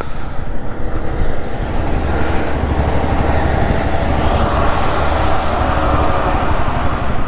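Hero Xpulse 200's single-cylinder engine running under way, with steady wind and road noise rushing over the camera mic and a low rumble beneath.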